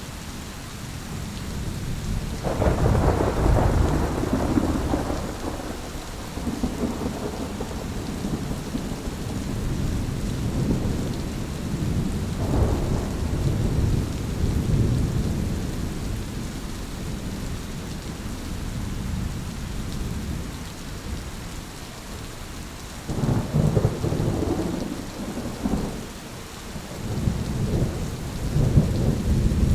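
Thunderstorm: steady rain with rolling thunder. A loud rumble builds about two and a half seconds in, another about halfway through, and a third, in several cracks, near the end.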